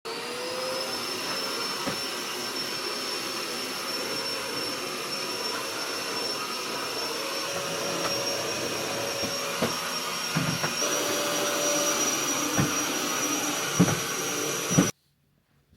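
Vacuum cleaner running steadily, its high motor whine climbing a little as it spins up at the start, with a few short knocks in the second half; it cuts off suddenly near the end.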